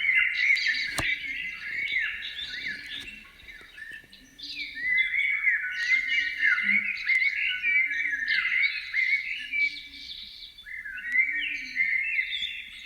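A flock of small birds chirping, many short overlapping chirps at once, easing off briefly about four seconds in before picking up again. Faint low notes repeat about once a second underneath.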